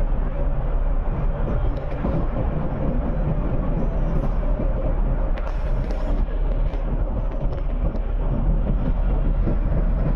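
Train running: a steady low rumble with a constant mid-pitched hum.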